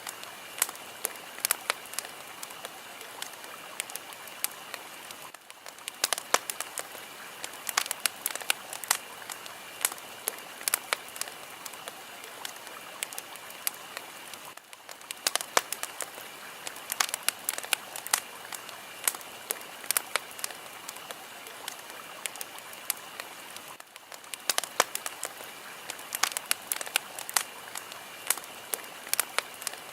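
Fire burning with frequent sharp crackles and pops over a steady hiss, the hiss dipping briefly about every nine seconds.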